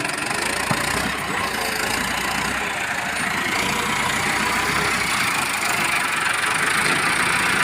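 Massey Ferguson 385 tractor's diesel engine running hard under load, its level jumping up at the start and swelling a little toward the end.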